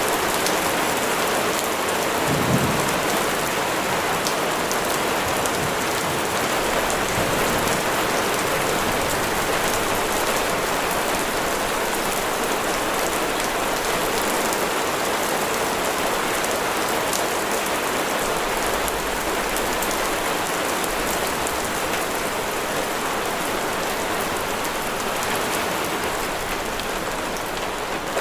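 Steady heavy rain falling and splashing on surfaces, a dense even hiss. One brief low thump comes about two and a half seconds in.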